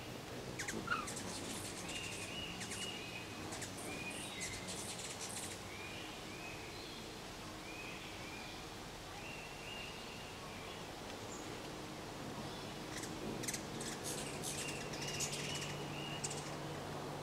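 Birds chirping outdoors: a short chirp repeated about once a second, with clusters of sharp high ticks in the first few seconds and again about three-quarters of the way through.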